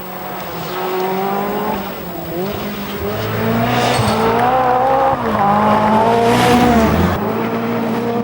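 Peugeot 205 T16 Group B rally car's turbocharged 1.8-litre four-cylinder engine revving hard, its pitch climbing and dropping several times with gear changes and lifts. It grows louder over the first few seconds as the car comes closer.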